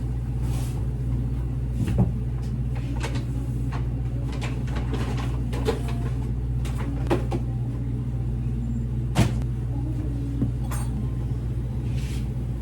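Steady low hum with scattered light clicks and knocks of things being handled, the loudest about two seconds in and again about nine seconds in.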